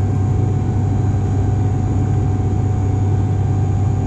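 ATR 42-500 twin turboprop heard inside the passenger cabin: a steady, loud, low propeller and engine drone with a faint constant whine above it.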